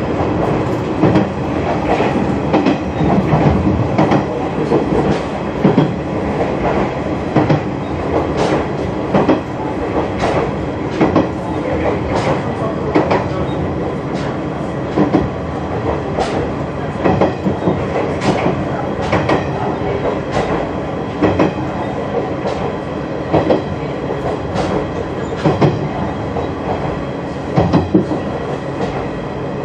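KiHa 100 diesel railcar under way, heard from inside the train: a steady engine drone under the running noise, with the wheels clicking over rail joints and points roughly once or twice a second.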